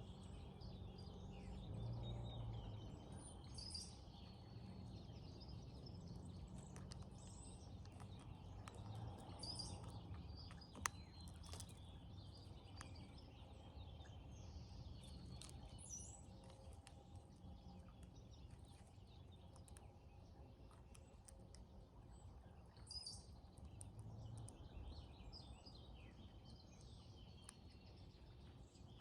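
Brown-headed cowbirds calling faintly: scattered high, thin whistles and chirps over a low, steady background rumble. One sharp click comes about eleven seconds in.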